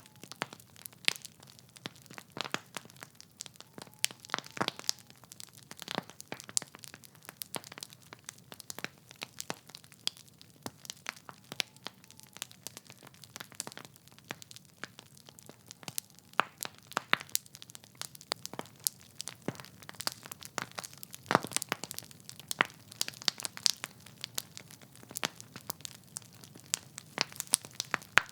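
Wood fire crackling in a fireplace: irregular sharp pops and snaps from burning logs, scattered through a soft steady hiss of flame.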